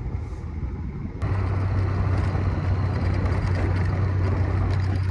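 A motor vehicle running steadily, with a continuous noisy wash. About a second in the level steps up suddenly and a steady low engine hum takes over.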